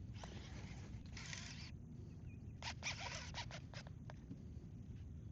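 Fishing reel working against a hooked redfish. There are short rasping runs, like line pulled off under heavy drag, then a quick string of sharp clicks about three seconds in, over a low rumble of wind and water.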